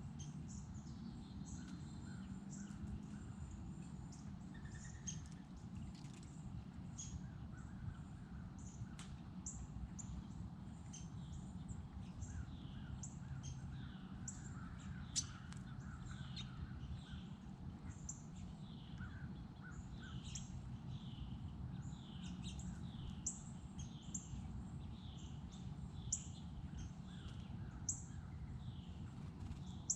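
Several wild birds chirping and calling throughout: many short, high chirps and down-sliding notes, with some lower repeated calls, over a steady low background rumble. A few sharp clicks break through, the loudest about halfway.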